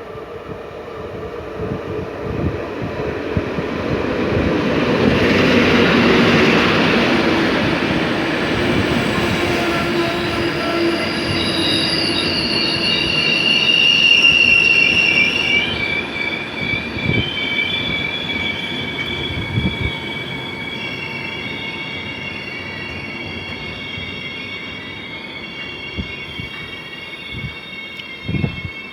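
Passenger train rolling past with a rumble and scattered knocks from the wheels, its wheels squealing in several high, steady tones that set in about a third of the way through and carry on to the end.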